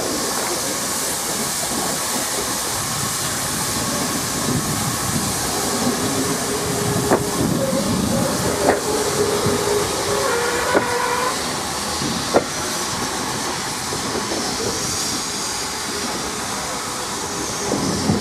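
Railway passenger coaches rolling slowly past over the points, their wheels giving single sharp clicks at rail joints every second or two, over a steady steam hiss. Short squealing tones come from the wheels around the middle.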